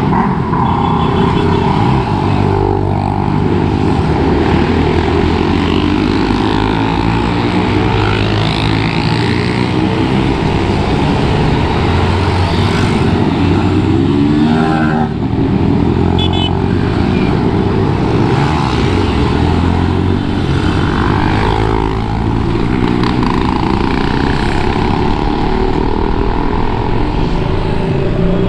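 Motorcycle engine running under way with wind and road noise, its pitch rising and falling a few times as the throttle changes.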